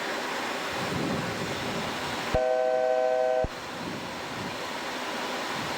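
Steady airflow noise in a Boeing 737-700 flight deck, with a steady electronic tone sounding about two seconds in for about a second and cutting off sharply: the altitude alert as the aircraft comes within about 1,000 feet of its selected level-off altitude.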